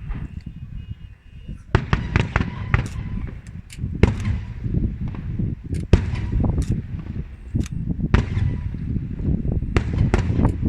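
Aerial fireworks shells bursting overhead: a low continuous rumble, then from about two seconds in a rapid, irregular series of sharp bangs, some in quick clusters.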